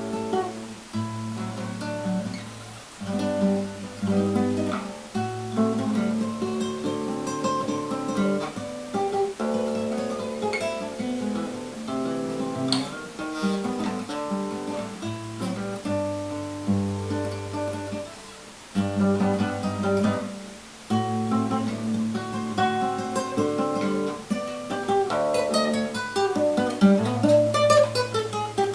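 Solo acoustic guitar playing a choro: plucked melody notes over a steady alternating bass line, with a quick descending run of notes near the end.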